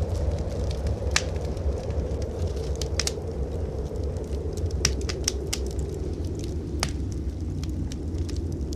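Fireplace wood fire crackling, with irregular sharp pops scattered through, the strongest about a second in and between three and seven seconds in. Underneath runs a steady low rush of blizzard wind.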